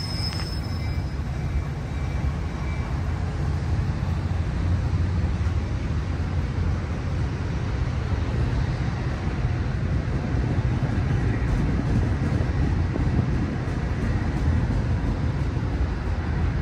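Metra commuter train running past with a steady low rumble that grows a little louder a few seconds in.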